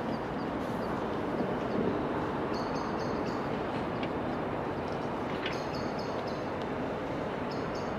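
A train approaching from a distance, still out of sight: a steady low rumble, with short high-pitched squeals coming in small groups every few seconds.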